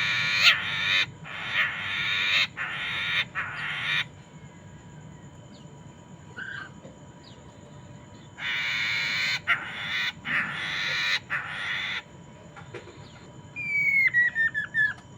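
Poksay mandarin, a laughingthrush, giving harsh raspy chattering calls in two runs of several bursts each. Near the end comes a quick run of short whistled notes falling in pitch.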